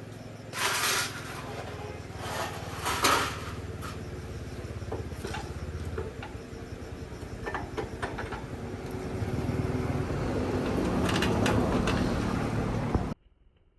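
A motor running steadily, with a few short, sharp bursts of noise early on. It grows louder over the last few seconds, then cuts off suddenly.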